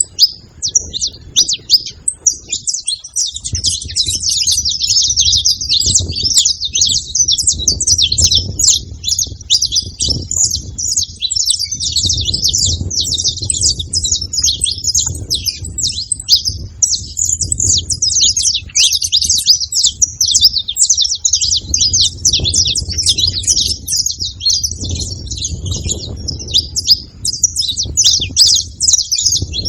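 A group of saffron finches chirping and singing together in a dense, unbroken chatter of high notes, with a low rumble coming and going underneath.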